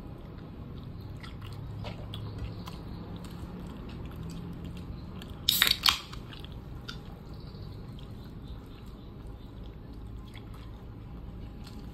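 Close-up chewing and small wet mouth and hand sounds of a person eating chicken kottu by hand, with soft scattered clicks over a steady low hum. A loud, short crackle cuts in a little past halfway.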